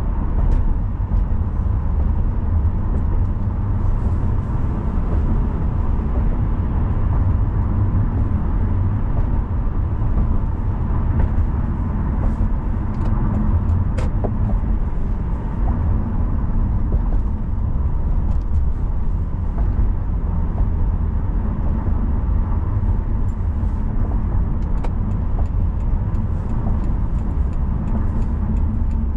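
A car driving on city roads: a steady low rumble of engine and tyre noise that holds even throughout, with a faint click about halfway through.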